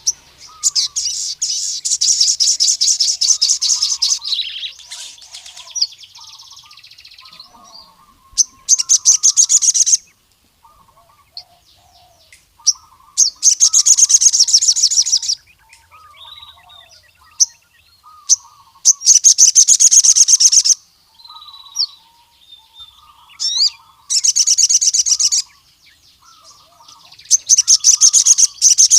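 Male crimson sunbird (sogon) singing: loud, rapid, high-pitched trilling song phrases, about six of them, each one to three seconds long and a few seconds apart. Softer, lower chirps come in between. This is the full 'gacor' song of a male calling out to a rival male.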